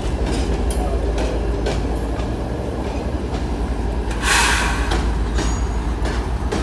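Freight train's covered hopper cars rolling past: a steady low rumble with repeated wheel clicks over the rail joints, and a brief louder burst of harsh noise about four seconds in.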